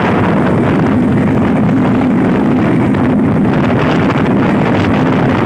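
Steady noise of a Bangladesh Railway intercity passenger train running at speed, heard from beside the coach: the run of the wheels on the track mixed with wind on the microphone.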